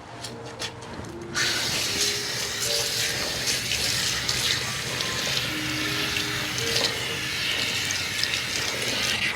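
Water running into a salon shampoo basin as hair is rinsed. The water comes on suddenly about a second in and then runs steadily as a hiss.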